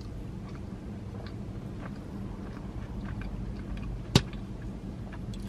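A person chewing a Twix Papa Bite dipped in caramel sauce, with small wet mouth clicks and one sharp click about four seconds in, over a low steady hum.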